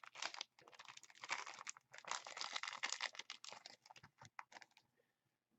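Thin plastic card sleeves crinkling and clicking as they are pulled from their pack and handled, a busy rustle that dies away about five seconds in.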